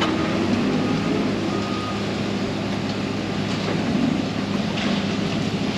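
Diesel truck engine idling steadily, a constant low drone.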